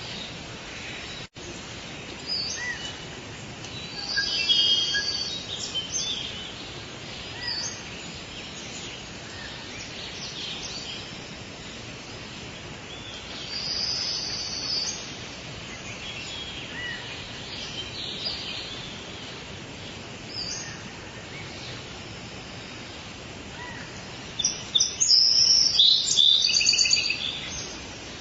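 Forest birdsong over a steady background hiss: scattered high chirps and calls, with a loud run of rapid chirping near the start and a denser burst of calls near the end.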